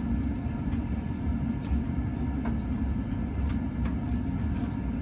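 1981 Envirofan Goldline industrial ceiling fan running at medium-low, a steady low hum with faint short squeaks and ticks here and there from its worn, squeaky bearings.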